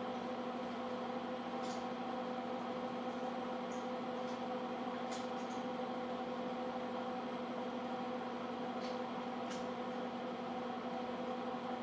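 Steady machine hum with a constant pitch and overtones, over an even hiss, with a few faint ticks.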